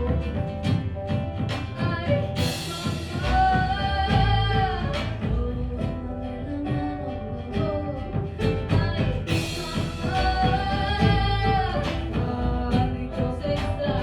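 Small folk band playing: acoustic guitar, double bass, banjo and hand percussion keeping a steady beat. A woman sings two phrases over it, starting a few seconds in and again near the end.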